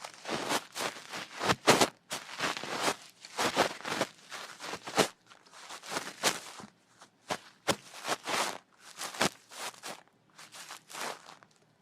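Ear-cleaning ASMR sounds: a cleaning tool scraping, rubbing and clicking close against a microphone's ear, in irregular short strokes with brief pauses.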